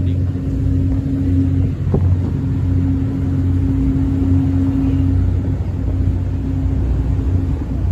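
Ferry engines droning steadily with a constant hum, under strong wind buffeting the microphone; a brief knock about two seconds in.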